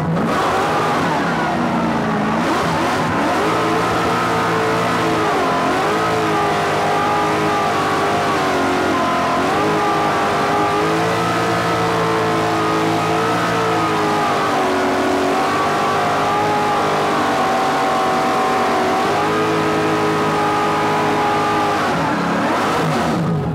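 Nissan 240SX's LS V8 engine running through ISR headers and a full ISR exhaust, revved up and down repeatedly, its pitch rising and falling, on its first warm-up after the headers were refitted.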